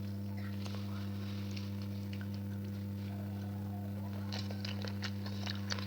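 Close-up eating sounds: small mouth smacks and chewing clicks, coming thicker about four seconds in, over a steady low hum.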